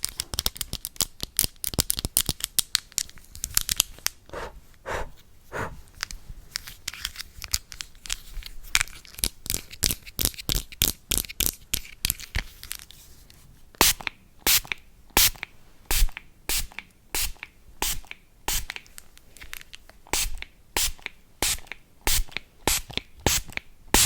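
A long run of sharp, close-miked clicks and taps, the ASMR tapping and cleaning triggers on a phone and tablet. They come thick and fast for the first few seconds, thin out, then settle at about two a second from a little past halfway.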